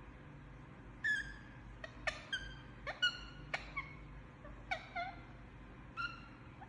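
A sleeping parrot making about ten short, soft chirps and squeaks. They start about a second in, come in an irregular string, and some dip slightly in pitch.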